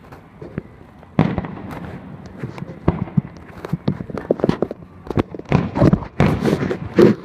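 Fireworks display: a quick run of sharp bangs and crackles, with a loud boom about a second in and a denser, louder volley of bursts from about five and a half seconds on.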